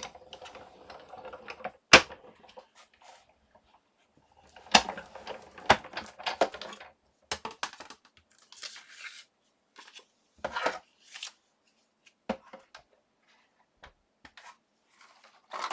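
Scattered sharp clicks, taps and short rustles of cutting plates, a thin metal die and copy paper being handled at a Sizzix Big Shot die-cutting machine, with a loud click about two seconds in and a busy cluster of knocks around five to seven seconds in.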